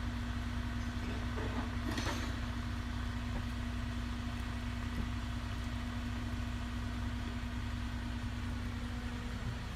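Engine of a heavy work vehicle running steadily at idle with a low rumble and a steady hum, with a brief hiss about two seconds in.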